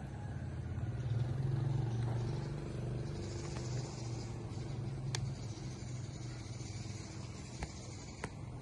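A motor vehicle's engine running with a steady low hum, louder about a second in and easing off after, with a few sharp clicks near the end.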